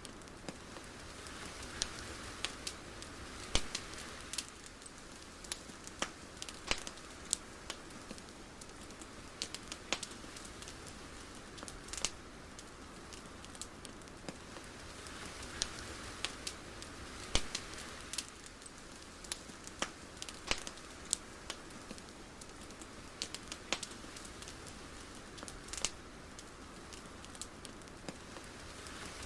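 Steady soft hiss with irregular sharp crackles and pops scattered through it, swelling gently twice.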